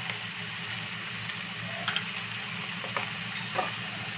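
Onions and capsicum sizzling steadily in hot oil in a pan, with a few light utensil taps as they are stirred.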